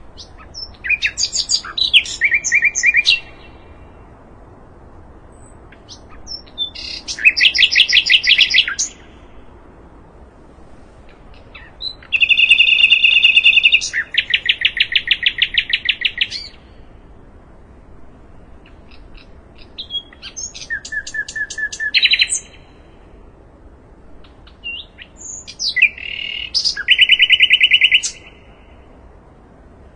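Sikatan londo singing: five song phrases of quick chirps running into fast buzzy trills, each lasting two to four seconds with pauses of a few seconds between them.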